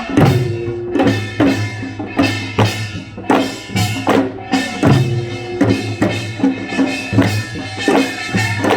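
Korean folk percussion ensemble drumming a steady beat, about two strikes a second, with ringing tones carrying between the strikes.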